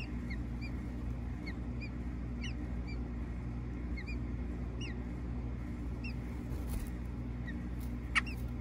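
Faint, high bird peeps repeating irregularly, a couple a second, over a steady low hum. Near the end, a single short sharp sound as an adult American robin lands at the nest.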